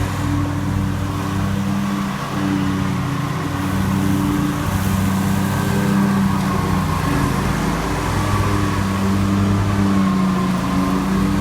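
Lawn mower engine running steadily under load, its pitch wavering slightly.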